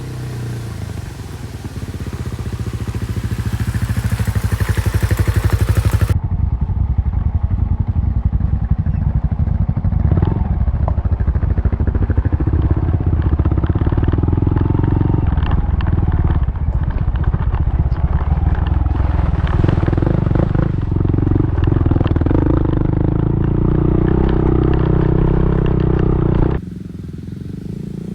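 Honda Monkey's small single-cylinder engine running as the bike rides off on a dirt forest road, with some rattle and clatter over the engine. It builds over the first few seconds, changes abruptly about six seconds in, and drops quieter near the end.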